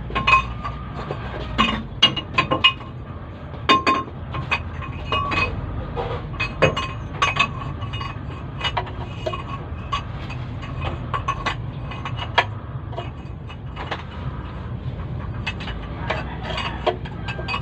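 Hand tools clinking and tapping on metal engine parts during a diesel engine teardown: irregular sharp metallic clinks and knocks, several a second at times, some ringing briefly, over a steady low hum.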